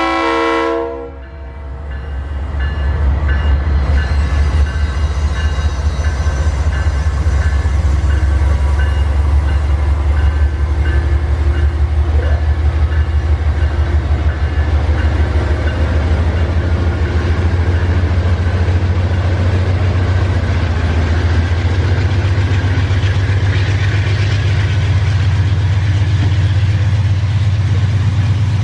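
GE Dash-9 diesel-electric locomotive running under power with a steady deep rumble, its air horn cutting off about a second in. The rumble grows a little stronger about two-thirds of the way through.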